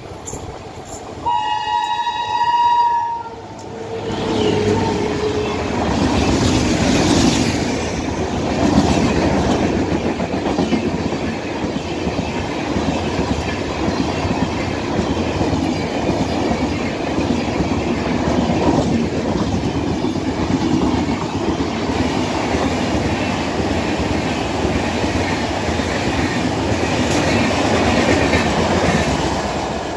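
Train horn blast about a second in, a high note held for about two seconds then a shorter lower note. The express passenger train with LHB coaches then runs through at speed, its wheels rumbling and clattering over the rail joints, easing off near the end.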